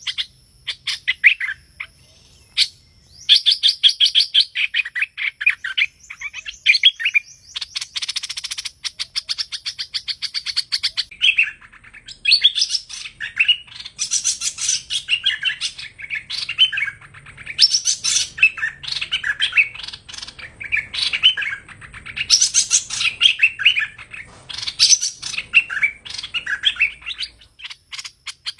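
Hoành hoạch songbird singing: long runs of rapid, loud chirping notes and trills with only brief pauses, a recorded song of the kind played as a trapping lure.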